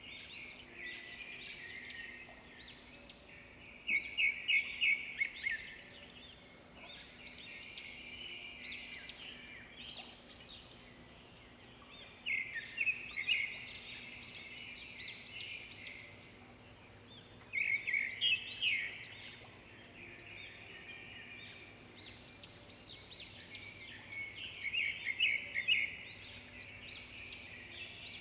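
Several birds singing and chirping together, with a louder phrase of quick repeated notes coming back about four times, roughly every six seconds.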